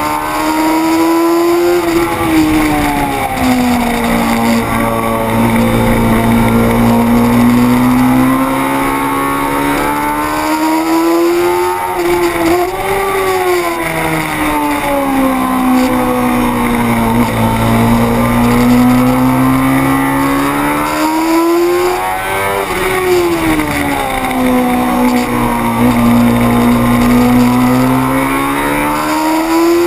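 600 cc racing motorcycle engine running hard, its pitch climbing and easing off smoothly three times, about ten seconds apart, over a steady rushing noise.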